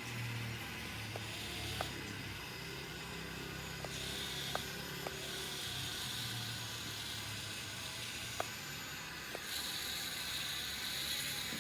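Electric motors of an RC construction model running: a steady low hum, with a higher whine that starts and stops in stretches of a second or two, and a few sharp small clicks.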